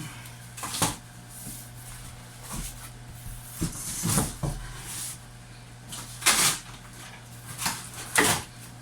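Cardboard packaging of a large boxed speaker cabinet being handled and turned over: a series of short scrapes and knocks, several seconds apart, over a steady low hum.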